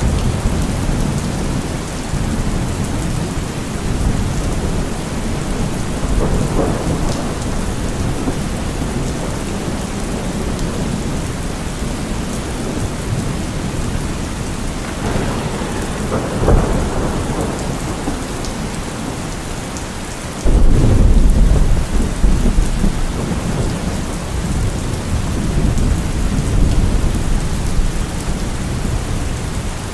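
Steady heavy rain with rolling thunder: rumbles swell and fade a few times, and a louder, deeper thunderclap breaks in suddenly about two-thirds of the way through and rolls on.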